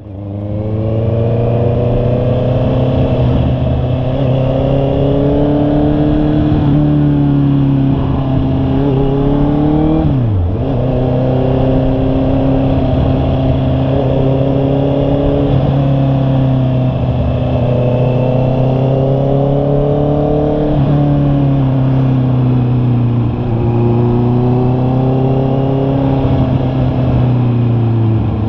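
Honda CB650R's inline-four engine running on the move, its pitch rising and falling gently with the throttle. About ten seconds in, the pitch dips sharply and recovers.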